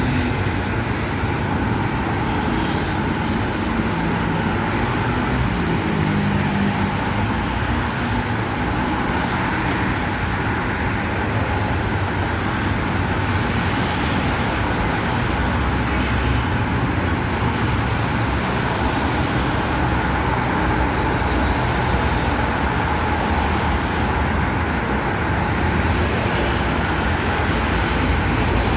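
Steady vehicle running noise, a continuous rumble and hiss that holds at an even level without pauses.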